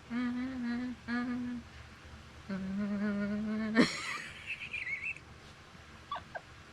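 A woman humming a tune in short held notes, then a longer, lower note that breaks off in a sudden sharp sound about four seconds in. A brief high wavering sound follows.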